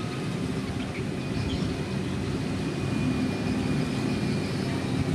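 Heavy motor grader's diesel engine running steadily under load, with a faint high whine above it.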